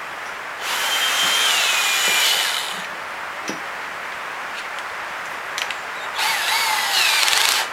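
Power drill boring a hole through a small piece of dense old teak, in two bursts of about two seconds and a second and a half, its whine dropping in pitch during each.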